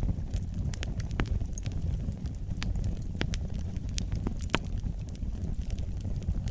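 Wood fire burning in a fireplace: a steady low rumble of flames with irregular sharp crackles and pops, the biggest pops about four seconds in.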